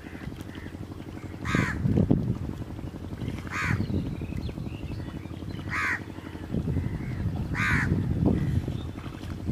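A bird gives a short, loud call four times, about every two seconds, over low sloshing of water.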